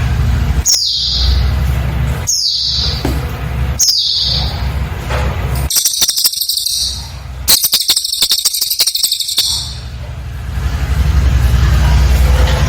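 Cililin bird singing: three sharp, high notes falling in pitch, about a second and a half apart, then two rapid buzzing trills, the second about two seconds long. This is the fast 'nembak' burst style used as a master song for training captive white-rumped shamas.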